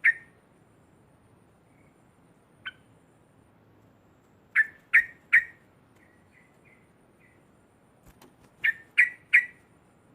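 Yellow-vented bulbul (cucak trucuk) calling in short, sharp notes: a single note at the start, another a few seconds later, then two quick runs of three loud notes with a few softer notes between them.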